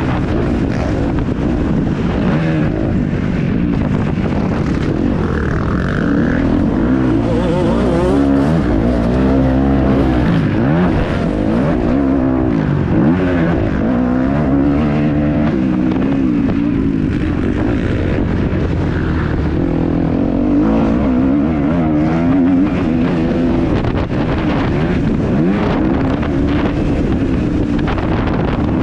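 Kawasaki KX250F four-stroke single-cylinder motocross engine revving up and down again and again as the bike is ridden hard, its pitch rising and falling with each throttle opening and shift.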